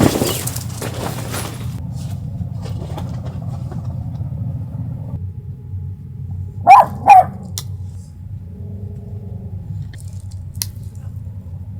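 A dog barks twice in quick succession, loud and sharp, over a steady low hum.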